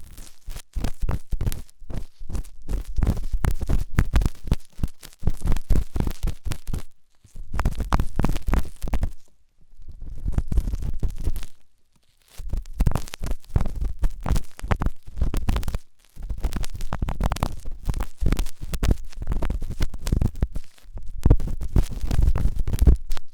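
Forceful ear-cleaning scraping: an ear pick scratching rapidly in dense runs of strokes, with a deep rumble under the scratches, stopping briefly a few times.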